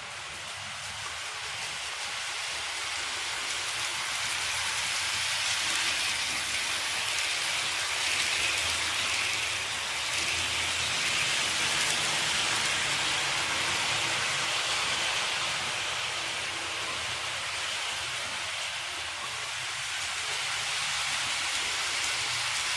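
H0-scale model train, a BR 52 steam locomotive model with coaches, running along the track with a steady rushing hiss. The noise swells over the first few seconds, eases for a moment near the end, then rises again.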